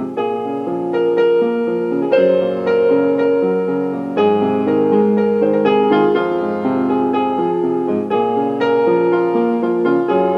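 Background piano music, a melody of separate notes over lower accompaniment.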